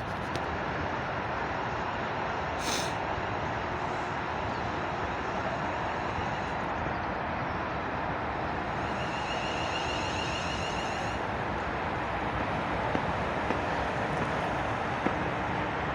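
Electric multiple unit standing at the platform, a steady even running noise, with a short air hiss about three seconds in.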